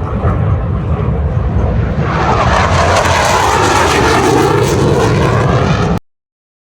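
Aircraft flying past at an air show display, growing louder about two seconds in, with a whine that falls in pitch as it passes; the sound cuts off abruptly near the end.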